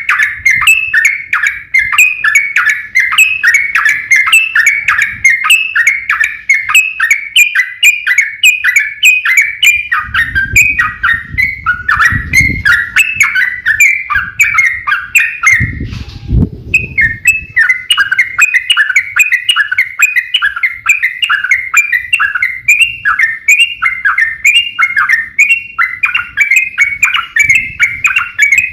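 Yellow-vented bulbul (trucuk) singing a fast, unbroken run of chirping notes, the rapid 'ropel' style of song. The song breaks off for about a second near the middle, where a low rumble is heard.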